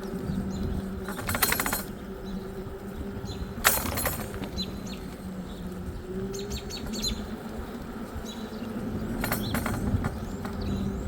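Birds chirping over a steady low hum, broken three times by brief loud rattling bursts.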